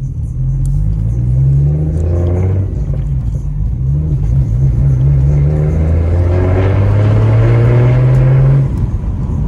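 Single-turbo BMW 335i's N55 inline-six, a Precision turbo on a Doc Race kit, running under throttle. The engine note rises and falls briefly early on, then climbs steadily for several seconds and drops off sharply near the end.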